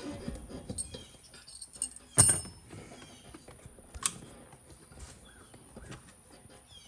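Tripod being handled and tightened: scattered small clicks and rattles, with a loud knock about two seconds in and a sharp click about four seconds in.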